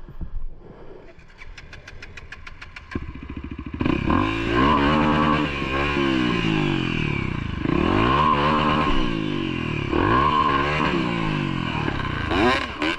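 Motorcycle engine running low, then revved up and down about four times in a row, each surge rising and falling in pitch.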